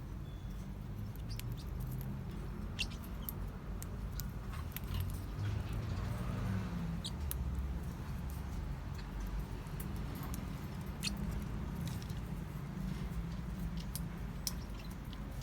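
Forpus parrotlets in their cage, giving scattered faint short high squeaks and clicks, one or two a second, over a steady low hum.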